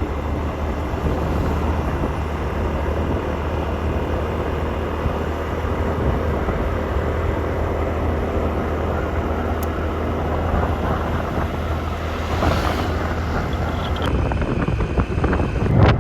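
Motorcycle engine running steadily while riding, with a constant low hum under road noise.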